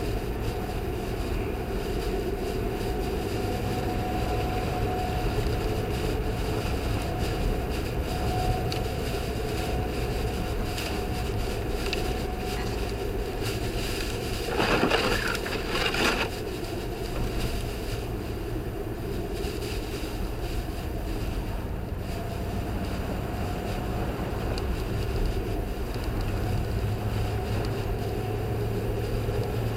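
Audi quattro driving on snowy, icy roads: a steady mix of engine and tyre noise, with a brief louder rush of noise about halfway through.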